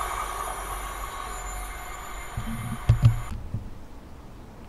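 Train going by, its rumble fading away. About three seconds in come a few low thumps and two sharp clicks, and then the train sound cuts off suddenly.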